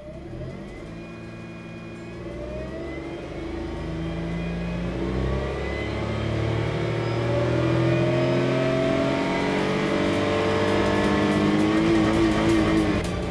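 Suzuki Wagon R MH34S's 660 cc three-cylinder engine revving, its pitch and loudness climbing gradually.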